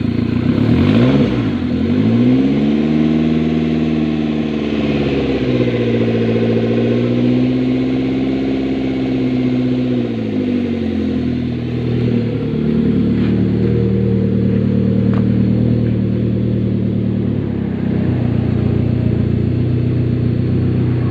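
Car engine revved up about two seconds in and held at raised speed for about eight seconds, then dropping back to a steady idle for the rest.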